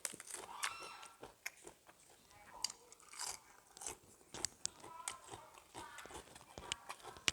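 A person chewing and biting into crunchy food close to the microphone, with irregular crunches and wet mouth sounds: eating a Thai seafood papaya salad.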